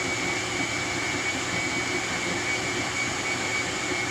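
Countertop blender running steadily at high speed, blending chopped cucumber and pineapple in coconut water: a constant motor whir with a high whine.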